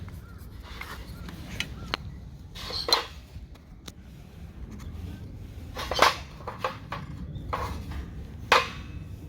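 Eating utensils knocking and clinking against camp cookware and dishes: a scattering of sharp knocks, the loudest about three, six and eight and a half seconds in.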